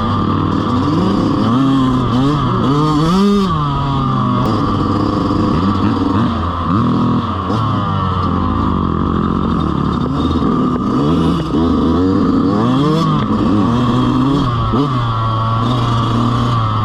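Dirt bike engines revving up and down over and over, the pitch climbing and dropping every second or two over a steady engine drone.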